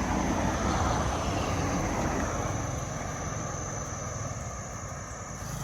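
Motorbike riding along a road: a steady low engine and wind rumble, with a louder rush in the first couple of seconds that then eases off.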